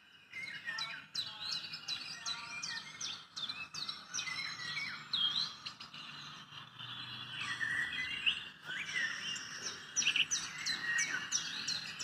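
Many small birds chirping together: a dense run of quick, overlapping chirps and short whistled notes.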